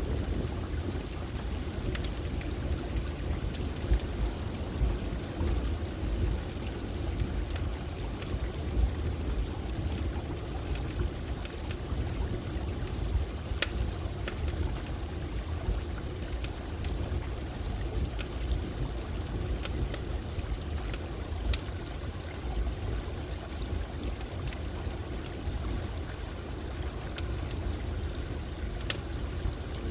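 Steady rush of running water, with sharp crackles and pops from a wood campfire scattered every few seconds.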